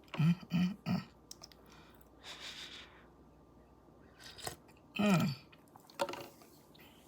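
A woman tasting hot coffee, making wordless vocal sounds: three short "mm" sounds at the start, a soft breathy sip about two seconds in, then a longer "mmm" falling in pitch about five seconds in, with mouth and chewing noises between.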